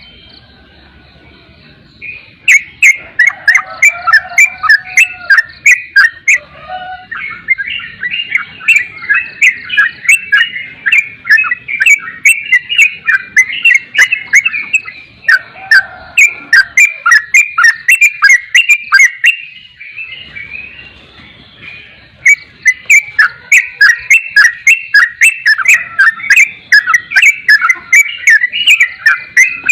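Trucukan (yellow-vented bulbul) calling: loud, rapid chattering notes, about two to three a second, in long runs broken by short pauses.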